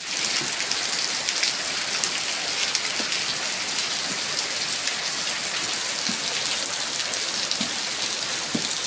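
Steady rain falling and pattering on surfaces, an even hiss with scattered drips.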